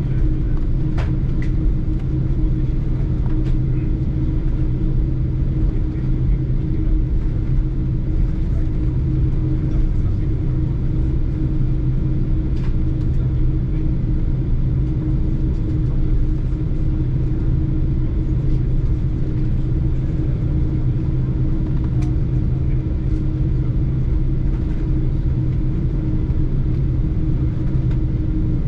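Steady low hum and rumble in the cabin of a Lufthansa Boeing 747-8 before takeoff, unchanging in pitch and loudness, with a few faint clicks.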